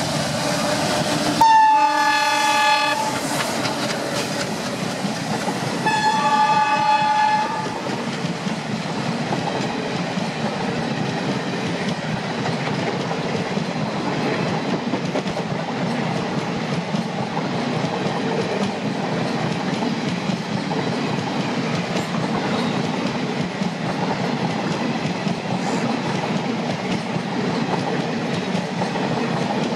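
Twin WDG3A ALCo diesel locomotives sound their horn twice, two blasts of about a second and a half each, as the train passes. The passenger coaches then roll past with a steady rumble.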